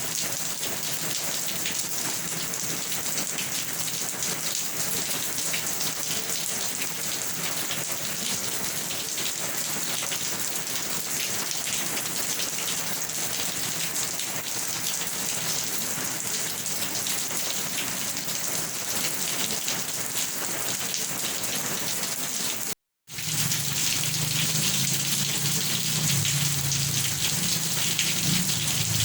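Steady heavy rain falling on a surface, a dense even hiss. About three quarters of the way through it cuts out completely for a split second, then resumes with a low rumble underneath.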